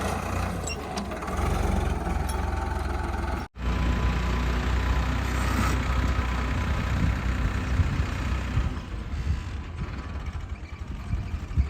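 Heavy diesel engine of earthmoving machinery running steadily, with a deep rumble. About a third of the way in the sound cuts out for an instant and resumes with a slightly different character.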